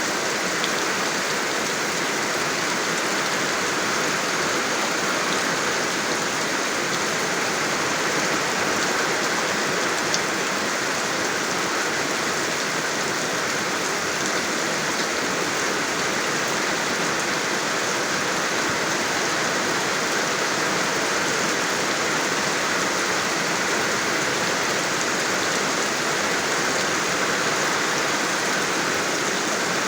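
Steady heavy rainfall, an even hiss of rain falling on surfaces.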